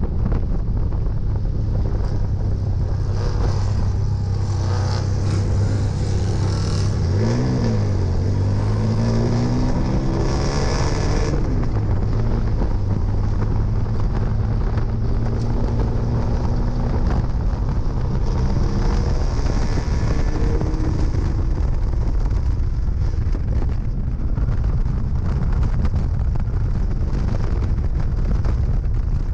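1968 MG Midget race car's four-cylinder engine pulling under load, heard from the open cockpit. About seven seconds in the engine pitch swings up and back down, then climbs for a few seconds as the car accelerates, and runs fairly steady after that.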